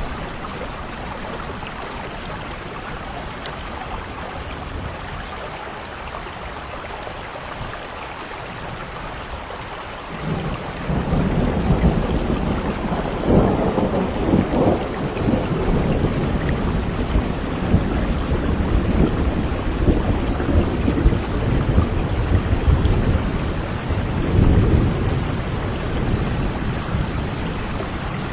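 Steady rain falling, with thunder breaking in suddenly about ten seconds in and rumbling on for the rest, swelling louder twice more.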